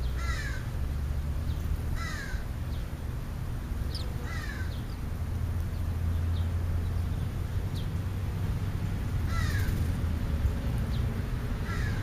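A bird giving short, harsh caws that slide downward in pitch, five times at uneven intervals, with a few thin, high downslurred chirps in between. A steady low rumble runs underneath.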